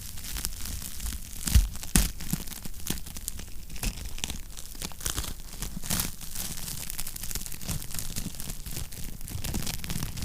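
Wood fire crackling in a fireplace, with many small irregular pops and two louder pops about one and a half and two seconds in.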